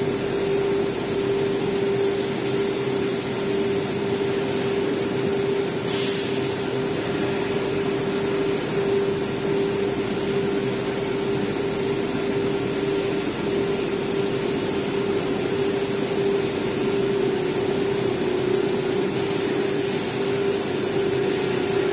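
CNC router with a 9 kW air-cooled spindle running: a steady, unchanging hum over a continuous hiss, with one brief sharp noise about six seconds in.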